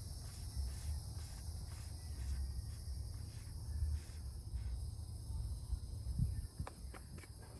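Insects shrilling steadily in a high pitch over a low rumble, with a few faint clicks near the end.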